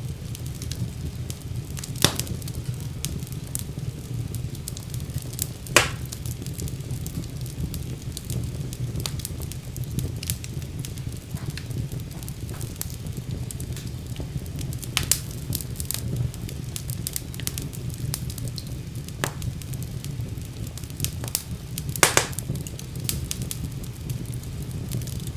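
Wood fire burning in a fireplace: a steady low rumble of the flames with irregular crackles and a few sharp pops.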